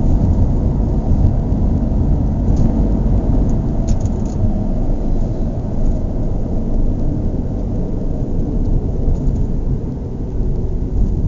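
Steady low rumbling noise, with a few faint clicks about two and a half and four seconds in.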